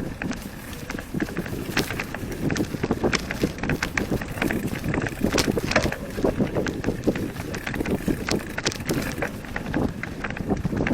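Movement along a dirt forest trail: a constant low rumble with many irregular knocks, crunches and rattles, and wind buffeting the microphone.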